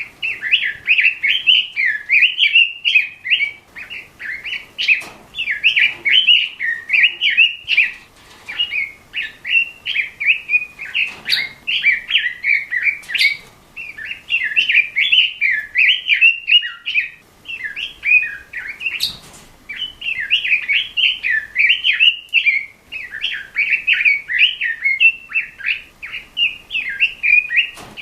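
Pekin robin (red-billed leiothrix) singing a rapid, continuous warbling song in long runs of quick notes, with brief breaks between bursts and a few short clicks.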